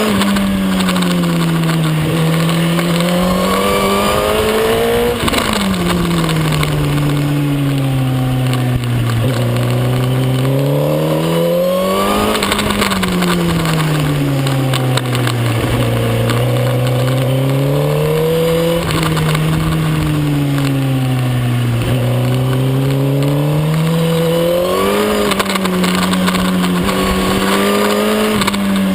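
Suzuki GSX-R1000 K9's inline-four engine heard on board at race pace, its pitch repeatedly climbing under acceleration, then dropping suddenly at upshifts and falling away under braking, with steady wind rush over the bike.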